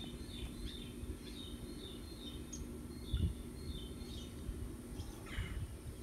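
Birds chirping outdoors: short high chirps, about two a second, over a steady low hum.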